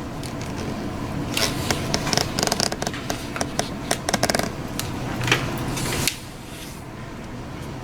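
Sheet of printer paper being handled and creased by hand: rustling and sharp crinkles, with a quick run of crackles between about two and four and a half seconds in, stopping about six seconds in.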